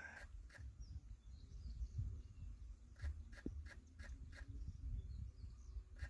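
A bird giving a quick run of about six short, sharp call notes, around four a second, past the middle, over a low rumble.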